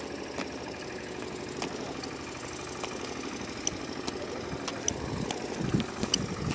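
An engine running steadily at idle, with a few short sharp clicks over it.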